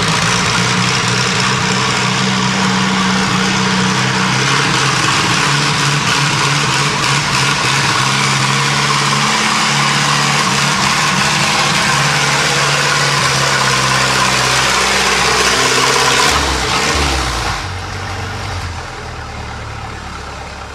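Pulling tractor's engine running hard under load, its pitch shifting up and down. About sixteen seconds in, the engine note drops as it is throttled back, and the sound falls away.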